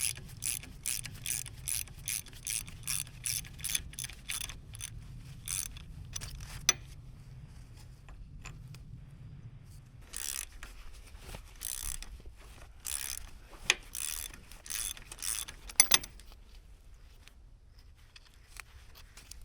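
Ratchet wrench clicking in quick repeated strokes as a bolt is worked loose, at about two or three strokes a second. After a pause the strokes come more irregularly, with a couple of sharp metal clanks near the end.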